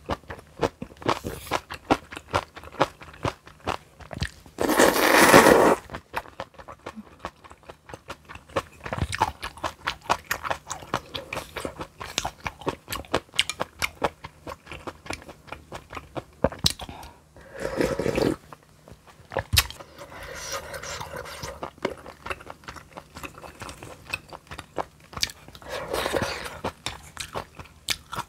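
Close-miked eating: steady crunchy chewing of crisp kimchi, with a few louder noisy bursts, the loudest about five seconds in.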